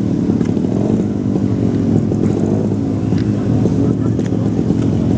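Vintage vehicle engine running steadily at low revs.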